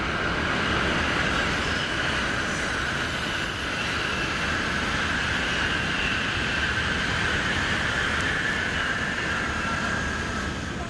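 An electric train passing close by: a steady rushing rumble with a whine above it, easing off near the end.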